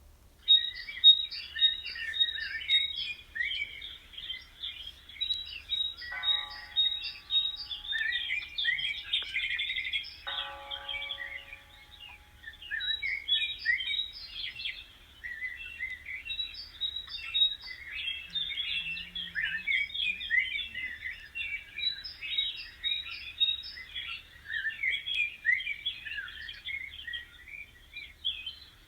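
A flock of small birds chirping and twittering together in a dense, unbroken chatter. A lower, harsher call cuts in briefly twice, about six and ten seconds in.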